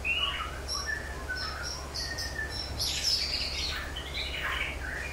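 Wild birds chirping and whistling in a quick, overlapping run of short notes, some sliding up or down, over a steady low hum.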